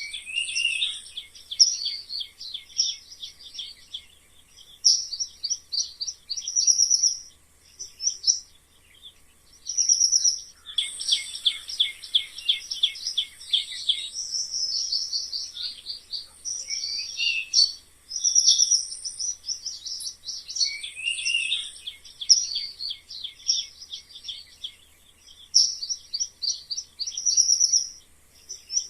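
Mice squeaking: rapid runs of short, high-pitched squeaks in bursts of a second or two with brief pauses, and a longer unbroken run about eleven seconds in.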